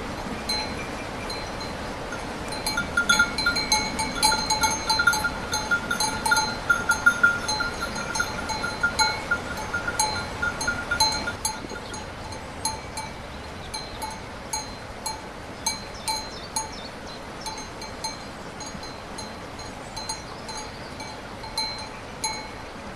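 A small metal bell clanking irregularly over a steady hiss of rain. The strokes come thick and loud for the first half, then thin out to scattered single clanks.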